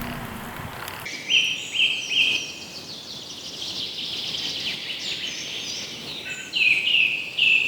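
Songbird singing: a quick set of three short, piercing notes about a second in, a softer high twittering through the middle, then another run of four or five of the same notes near the end.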